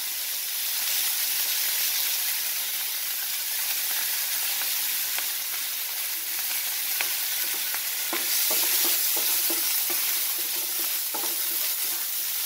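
Sliced onions and green chillies sizzling in hot oil in a nonstick wok: a steady hiss. In the second half a wooden spatula stirs them, adding scattered scraping ticks.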